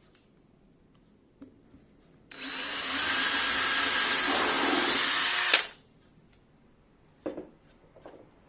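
Power drill running at a steady speed for about three seconds, then stopping with a click as it winds down; a few light knocks follow near the end.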